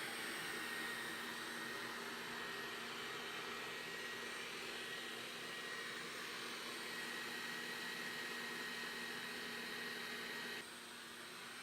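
Roborock S5 robot vacuum running: a steady fan whir with a thin high whine. It drops suddenly to a quieter hum near the end.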